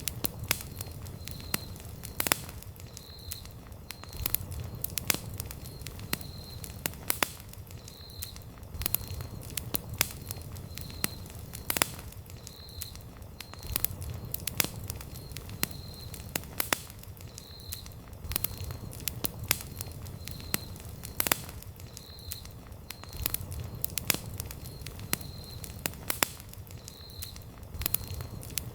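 Wood campfire crackling: sharp pops and snaps, several a second, over a low steady rumble of flame. A faint high chirp repeats about once a second behind it.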